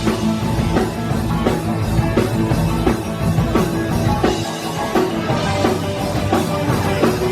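Live rock band playing a fast song on drum kit and electric guitars.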